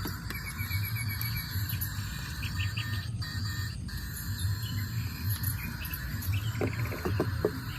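Small repeated chirps, with a quick trill about six and a half seconds in, over a steady low rumble: the sound of birds and insects calling.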